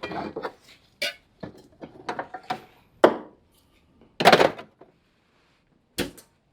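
Hand tools and metal parts being handled during ATV rear-axle work: a string of separate knocks and clanks, with a longer scrape-like noise about four seconds in, the loudest of them.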